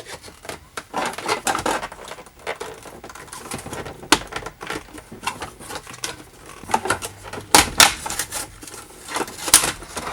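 Irregular plastic clicks, taps and knocks from hands pushing and fitting a car stereo and its plastic dash adapter trim into the dashboard, with a few sharper snaps near the end.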